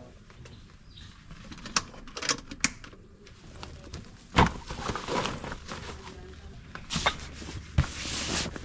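Scattered clicks and knocks with two longer stretches of rustling, handling noise.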